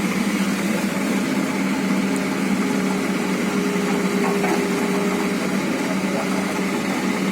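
Excavator's diesel engine running steadily, with a faint higher steady tone joining for a few seconds midway.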